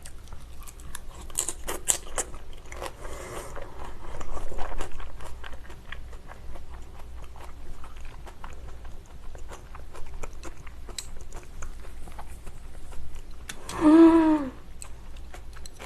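Close-miked mouth sounds of someone chewing crisp salad, with many small wet clicks and crunches, louder for a couple of seconds early on. Near the end comes one short hummed vocal sound.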